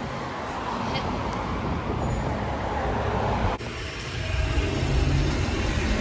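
Road traffic noise: a steady rush of passing vehicles with a low engine rumble. It breaks off abruptly about three and a half seconds in, and a lower, steadier rumble follows.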